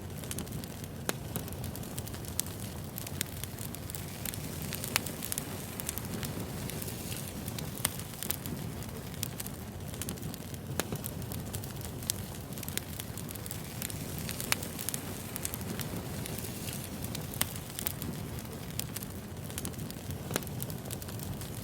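Wood fire burning, a steady low rumble of flames with sharp, irregular pops and crackles of burning logs.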